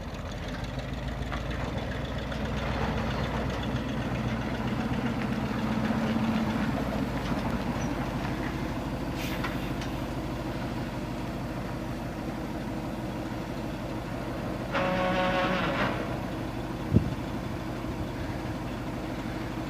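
1969 Chevrolet C60 grain truck's engine running steadily, swelling louder for a few seconds near the start and then settling. About fifteen seconds in, a pitched tone sounds for about a second, and a single sharp knock follows shortly after.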